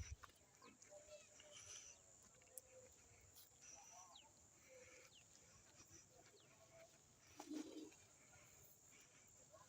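Faint bird calls: short low coos, one a little stronger about seven seconds in, and a few thin high chirps.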